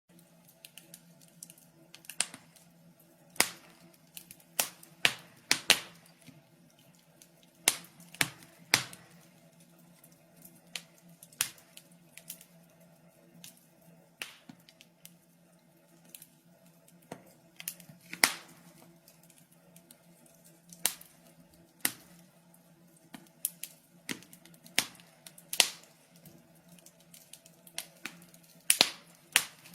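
Wood fire in a fireplace crackling: irregular sharp pops and snaps every second or so over a faint steady low hum.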